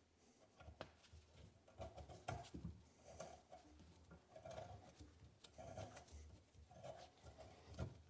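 8.5 mm hand reamer turned with a tap wrench in a door hinge's bolt hole, faint scraping strokes about once a second as it cuts the metal.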